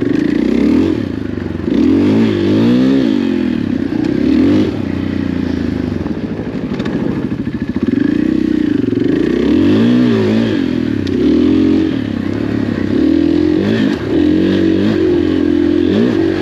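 KTM 500 EXC dirt bike's single-cylinder four-stroke engine running under way, its pitch rising and falling again and again as the throttle is opened and rolled off on a slippery trail.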